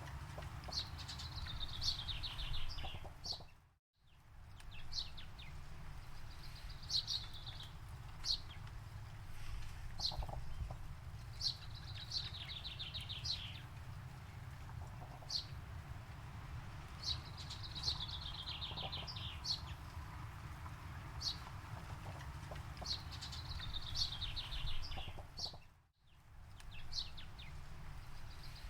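Birds singing: one bird repeats a short, falling, trilled phrase every few seconds, with single sharp chirps in between, over a steady low rumble. The sound briefly fades out to silence twice.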